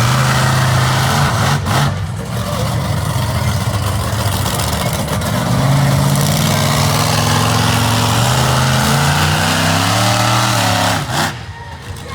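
Monster truck engine running loud and revving, its pitch rising and falling, then dropping away suddenly near the end.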